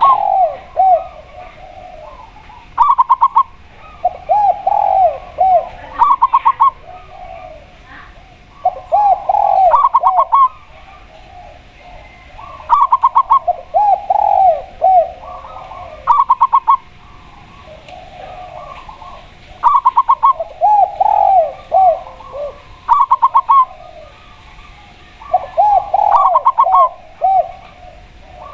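A spotted dove (tekukur) and a zebra dove (perkutut) calling back and forth. Short runs of rapid staccato notes alternate with lower, rounder, arching coos, and a new phrase comes every couple of seconds.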